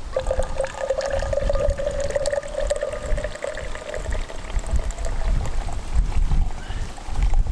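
Liquid poured steadily into a cup, its pitch slowly rising as the cup fills, over a low wind rumble on the microphone.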